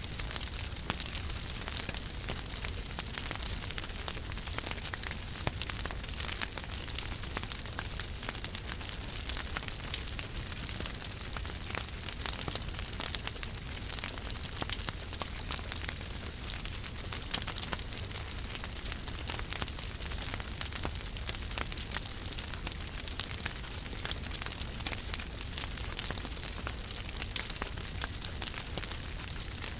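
Wood fire burning in a fireplace, crackling with frequent sharp pops over a steady hiss and low rumble.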